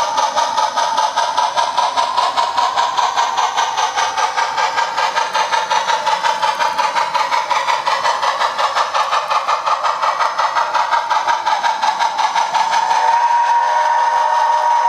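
Sound-equipped OO gauge model locomotive playing through its small speaker: a steady rhythmic pulsing running sound, then a held whistle tone starting near the end.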